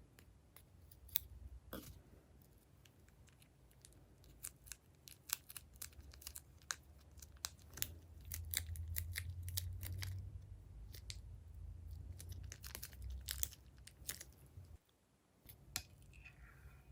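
Clear slime being squeezed and worked by hand, giving an irregular run of sticky clicks and small crackling pops over a low handling rumble.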